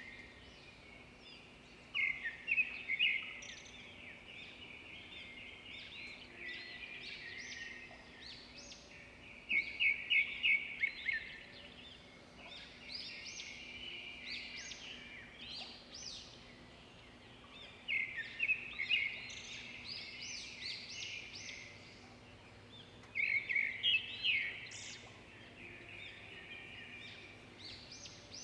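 Swiftlets twittering with continual high chirps. Louder bursts of rapid chirping come about every six to eight seconds.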